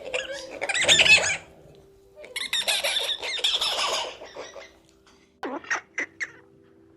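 Animal calls: a loud call about a second in, a longer run of calls from about two and a half to four seconds, then a few short calls near the end.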